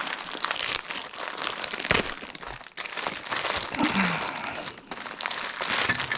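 Plastic packaging crinkling and rustling in handling, with irregular small crackles and clicks, as accessories are taken out of their wrapping.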